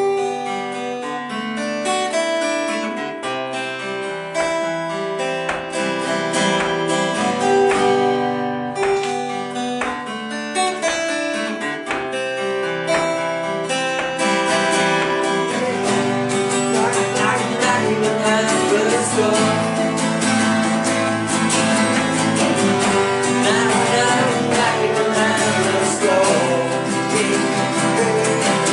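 Acoustic guitars playing a song accompaniment with regular strummed and picked chords; about halfway through, the sound grows fuller, with a wavering melody line over the chords.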